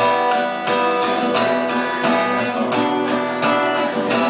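Acoustic guitar strummed in a steady rhythm, an instrumental passage of a song played live.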